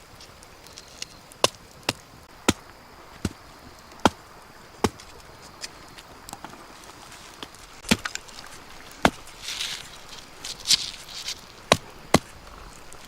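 Chopping with a blade: about a dozen sharp strikes at uneven intervals, mostly under a second apart, with a short rustle between strikes about two-thirds of the way through.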